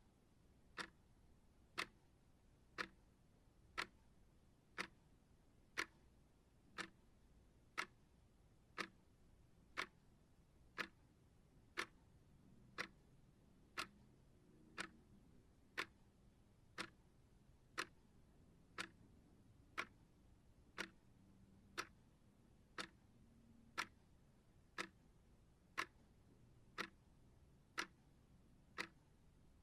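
Clock ticking steadily, one sharp tick about every second, some ticks a little louder than others.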